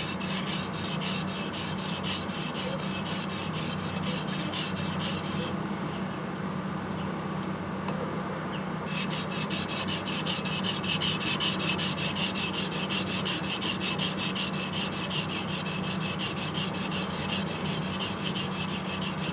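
An R2-steel yanagiba's bevel is rubbed back and forth on a whetstone in quick, even scraping strokes, grinding off steel to reshape the edge. The strokes pause for about three seconds partway through, then resume.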